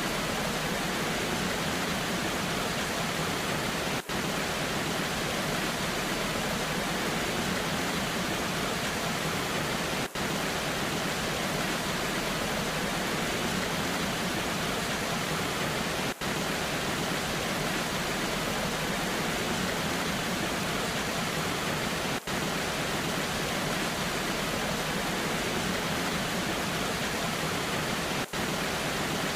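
Waterfall with rain falling: a steady rushing hiss of water, broken by a brief dip in level about every six seconds.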